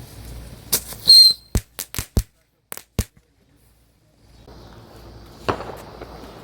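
Small fireworks going off: a quick string of about eight sharp pops and cracks over roughly two seconds, the loudest near the start with a brief high ring, then one more crack near the end.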